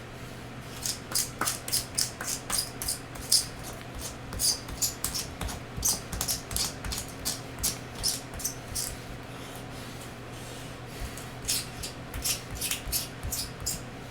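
Pencil sharpener cutting pencils in quick, even strokes, about three a second, with a pause of about two seconds near the middle. A steady fan hum runs underneath.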